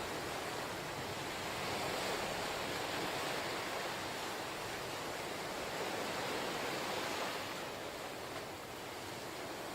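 Ocean waves washing onto the shore, a steady rush of surf that swells for a few seconds and eases off near the end.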